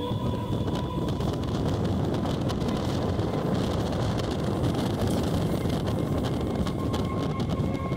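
EMU electric suburban train running, a steady rumble of wheels and motors with wind noise on the microphone.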